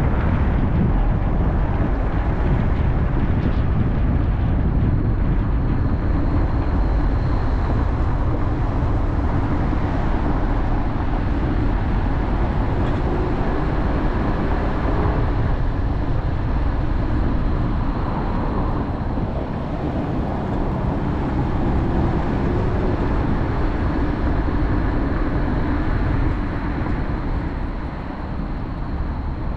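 A car driving on city streets: steady road and engine noise with a deep low rumble, easing off slightly near the end.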